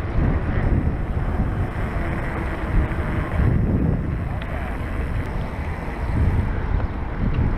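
Steady, loud wind rumble on an action camera's microphone while a mountain bike is ridden.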